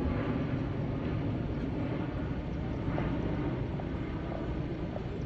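Jet airliner overhead, its engines a steady low rumble.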